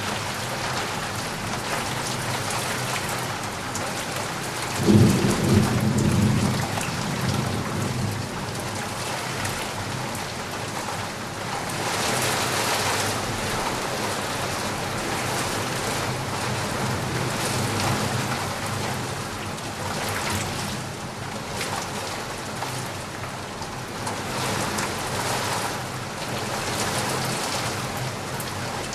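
Steady rain falling, with a clap of thunder about five seconds in that rumbles low and fades over a couple of seconds.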